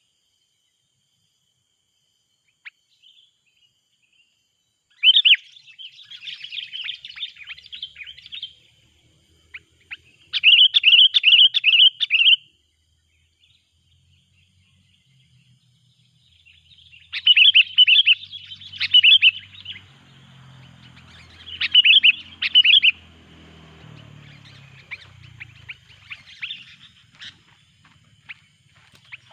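Sooty-headed bulbul (kutilang) calling loudly in short bursts of quick, repeated chattering notes, four main phrases separated by pauses. It is the noisy calling of a decoy bird used to lure rival kutilang in.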